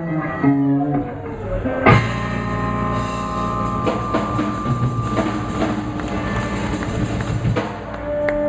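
Live electric blues band ending a song. A descending electric guitar run gives way, about two seconds in, to a full-band hit on a held final chord, with drums pounding and cymbals ringing over it.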